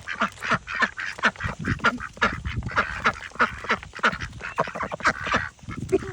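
Several ducks quacking over one another in quick, short calls.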